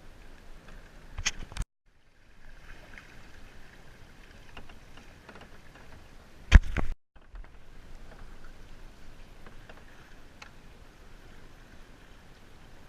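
Water washing and splashing around a sea kayak, with two loud sudden bangs, about a second in and about six and a half seconds in, each followed by a brief cut-out of all sound.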